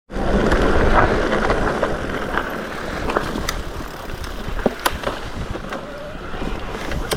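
Mountain bike rolling over a rocky trail: a steady rush of tyre and wind noise with scattered sharp clicks and knocks from stones and rattling parts.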